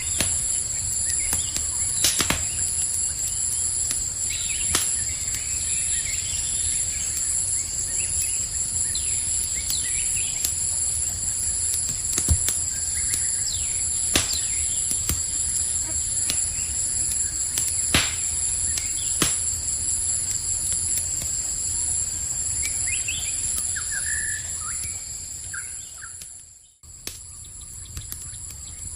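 Campfire crackling, with a sharp pop every few seconds, over a steady high-pitched insect chorus at night. A few faint bird chirps come near the end, and the whole sound fades out briefly about 27 seconds in, then returns quieter.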